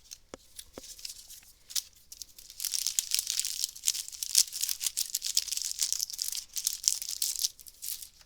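A trading-card booster pack wrapper being torn open and crinkled. A few light clicks come in the first second, then dense crinkling and tearing runs from about two and a half seconds in.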